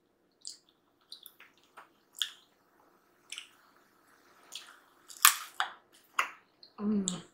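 Close-up mouth sounds of someone gnawing and sucking on a fried chicken drumstick bone: scattered wet smacks and sharp clicks, the loudest about five seconds in, with a brief vocal sound near the end.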